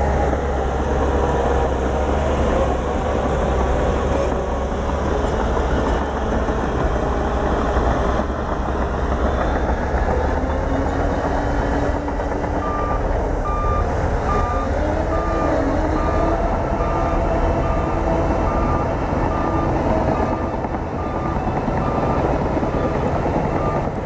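Bulldozer's diesel engine running under load, its pitch drifting up and down as the throttle changes. About halfway through, a reversing alarm starts beeping steadily, a little more than once a second.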